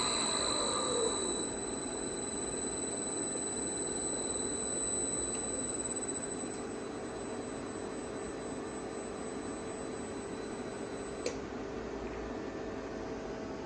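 KEB inverter (24F5L0R-YF0H) on a test run after repair: a steady high-pitched electrical whine over a low hum. About a second in, a short falling tone comes as the level drops. Near the end there is a single click as the highest whine cuts off.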